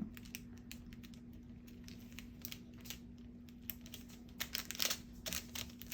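Paper and cardstock being handled and pressed into place by hand: soft rustling and light taps, with a few louder crinkles between about four and a half and five and a half seconds in, over a faint steady low hum.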